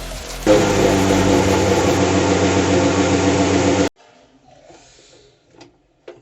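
Electric blender motor running steadily at full speed, starting about half a second in and cutting off abruptly about four seconds in. A couple of light clicks follow near the end.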